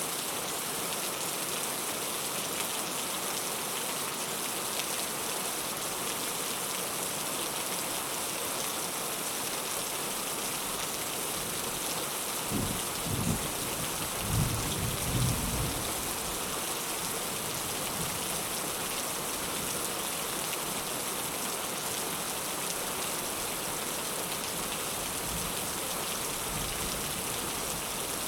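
Heavy rain falling in a steady, even hiss, with a low rumble of thunder a little under halfway through that lasts a few seconds.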